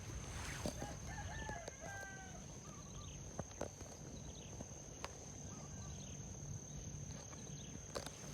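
A rooster crowing once, faint, about a second in, over a steady high-pitched whine, with a couple of light knocks later on.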